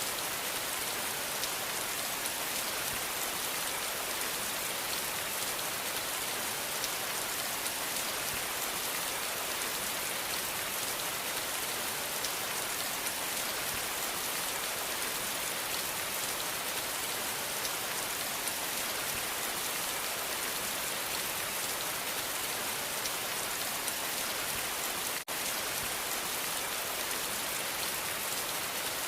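Steady rain falling, an even hiss of many fine drops, with a split-second dip in level near the end.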